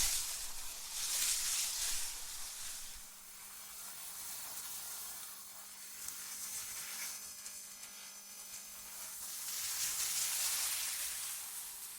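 AI-generated wind ambience: a high, airy hiss that swells and fades in slow gusts, strongest about a second in and again near the end, over a faint steady low hum.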